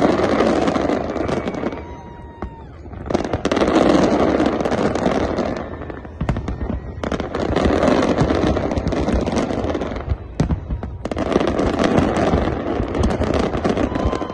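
Fireworks display: dense volleys of rapid bangs and crackling, coming in four waves a few seconds long, with short lulls between them.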